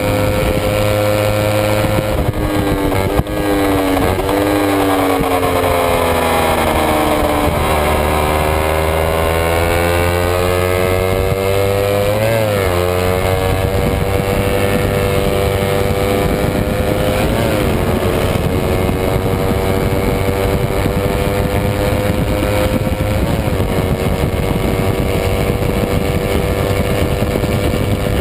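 Kawasaki Ninja 250 race bike's parallel-twin engine at high revs under racing load. The engine note drops from about two seconds in and falls steadily for several seconds, then climbs back up with a quick break about twelve seconds in, and holds high and steady with brief dips twice after that.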